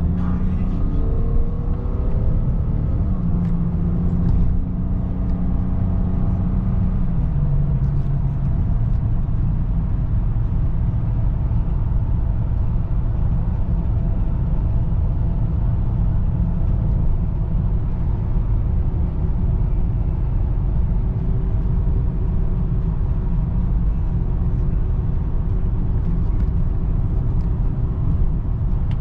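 2003 BMW 525i with its 2.5-litre inline-six, driving on the road with a steady low rumble of engine and road noise. In the first few seconds its hum steps up in pitch and then drops back about seven seconds in.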